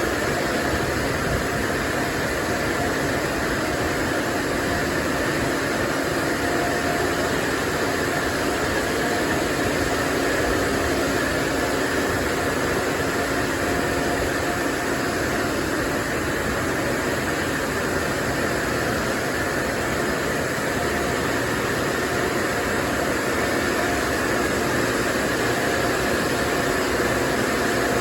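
LaserWash 360 touchless car wash running, heard from inside the car's cabin: a steady rushing noise with a faint constant whine.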